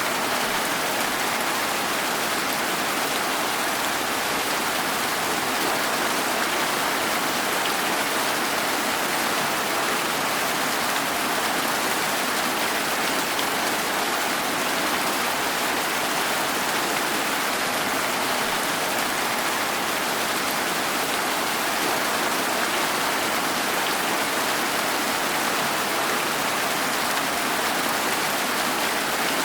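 Steady rain falling without pause, an even hiss.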